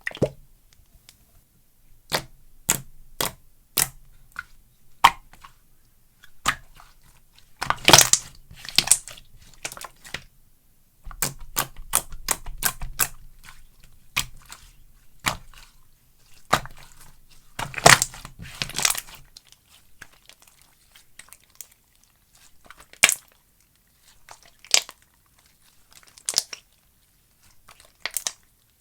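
Hands playing with slime: a run of sharp pops and crackles as it is pressed and stretched, denser in a couple of spells.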